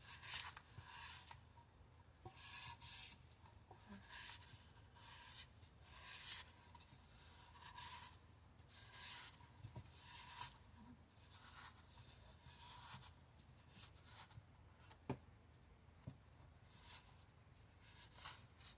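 Faint, irregular rubbing strokes of a vinyl wrap being smoothed and pressed onto a tumbler, with a sharp tick about fifteen seconds in.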